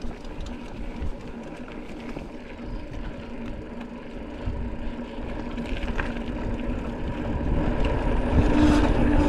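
Mountain bike rolling over a dirt trail: tyre rumble and rattle, with wind on the microphone, growing louder from about two-thirds of the way in as speed builds. A steady hum comes in near the end.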